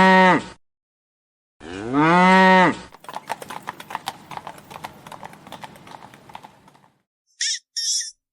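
Two long, loud lowing calls from a bovine, each about a second and a half, rising then falling slightly in pitch. They are followed by about four seconds of irregular clicking and tapping, and then two short high chirps near the end.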